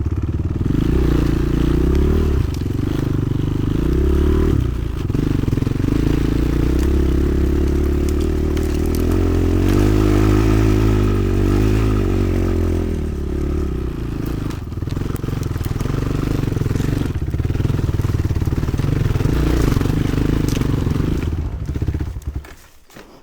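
Motoland XR 300 Lite enduro motorcycle engine running while being ridden, the revs rising and falling. The sound drops away sharply near the end.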